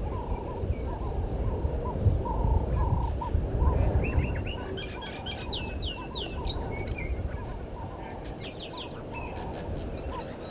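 Birds calling at a waterhole: a steady series of short low notes, about two or three a second, and from about the middle on, bursts of high falling whistles and chirps. A low rumble underneath fades through the first half.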